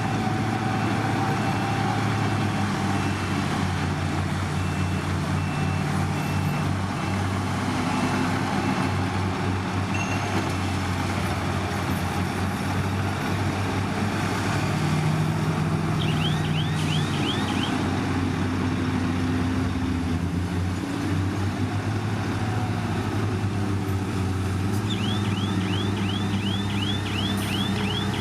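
Heavy diesel earthmoving machinery running steadily, its engine note rising and falling with load. A rapid chirping warning alarm sounds briefly a little past halfway and again near the end.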